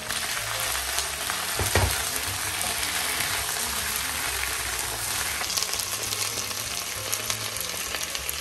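Potato strips and sliced onion sizzling steadily as they fry in olive oil in a non-stick pan, stirred with a wooden spatula. A single knock sounds a little under two seconds in.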